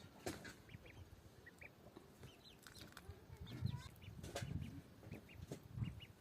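Faint farmyard poultry: chickens clucking, with many short high peeps scattered throughout. A few sharp clicks, and low thuds in the second half.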